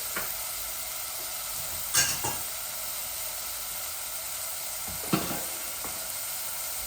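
Grated onion frying in hot oil in a pot, a steady sizzle, with a spoon knocking against the pot twice while stirring.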